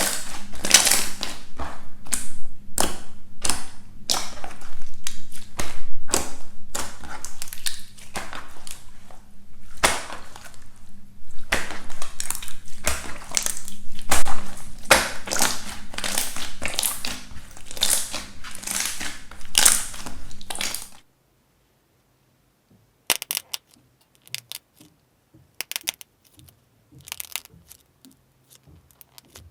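Slime being squeezed and worked by hand, giving a dense run of crackling, popping clicks. It cuts off suddenly after about twenty seconds, leaving only scattered sharp clicks.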